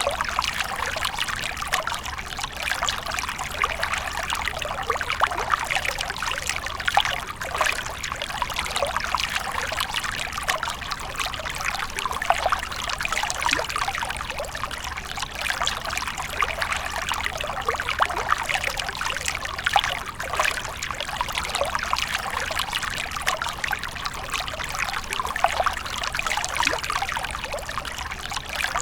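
Water fountain splashing and trickling steadily, a continuous patter of falling water.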